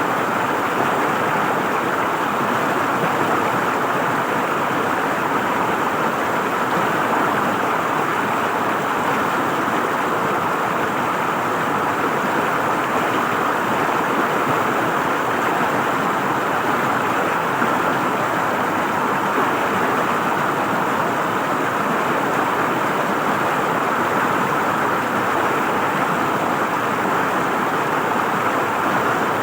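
River water flowing and gurgling over rocks in a steady, even rush.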